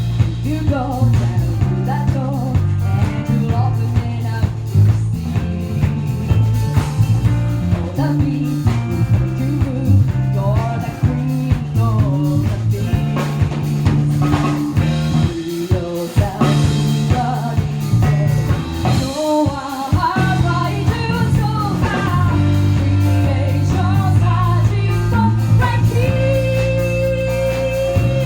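A rock band playing a song with a sung vocal line over drum kit, bass and electric guitar, the drums keeping a steady beat. Near the end a single note is held for a couple of seconds.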